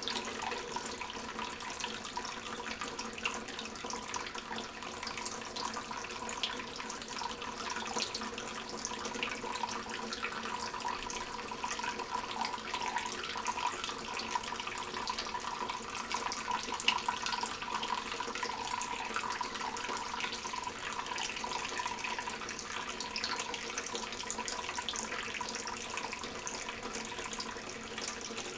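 Tap water running steadily into a sink, with a lovebird bathing in the stream.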